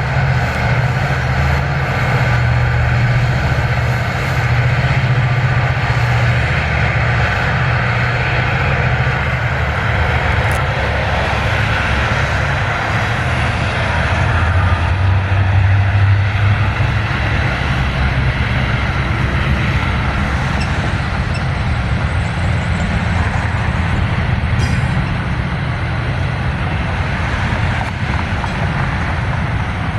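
Freight train rolling past with a steady low rumble of diesel locomotives and rail cars, staying loud throughout and swelling slightly about halfway through.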